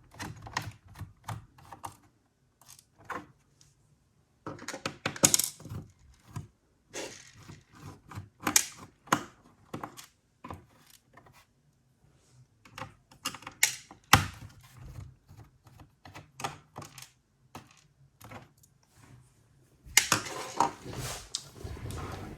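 Scattered small clicks, taps and scrapes of the bottom-case screws being turned out of a laptop's plastic case, with small metal taps like screws being set down; a louder stretch of handling noise near the end.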